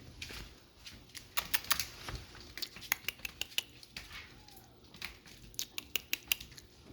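Chihuahua puppies moving about and playing: irregular sharp clicks and taps with light rustling, like small claws and paws scrabbling on a hard surface.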